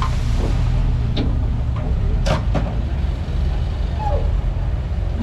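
Komatsu D31P bulldozer's diesel engine running steadily with a low rumble, with a few sharp knocks and clanks over it, the loudest about two and a half seconds in.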